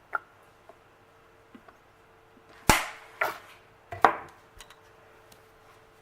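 A few sharp clicks and knocks from handling a dish-soap bottle while soaping a makeup sponge: one near the start, then three louder ones between about two and a half and four seconds in.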